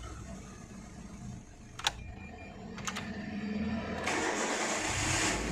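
Renault Duster's 1.6-litre four-cylinder petrol engine being started: a few sharp clicks, then about four seconds in the starter cranks and the engine catches at once. It now starts on the first crank with the faulty intake air temperature sensor's reading corrected by a resistor.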